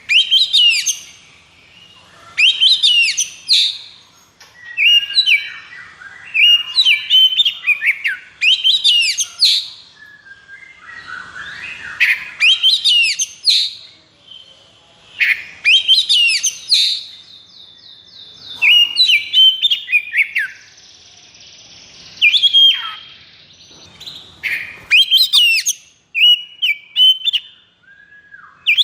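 Oriental magpie-robin (kacer) in excited, non-stop full song: loud bursts of fast whistled notes that sweep up and down, one phrase every second or two, with a short rattling trill about two-thirds of the way through.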